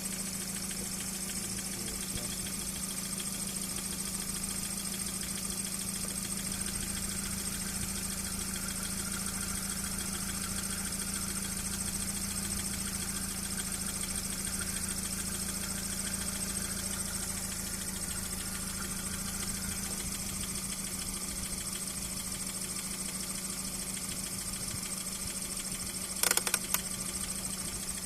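Car engine idling steadily, a low even hum with a thin high whine over it. Near the end, a quick cluster of sharp clicks.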